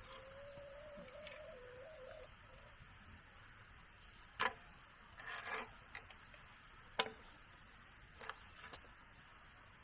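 A few sparse, sharp knocks of wood or tools being handled, spread a second or two apart, with a faint wavering tone in the first two seconds.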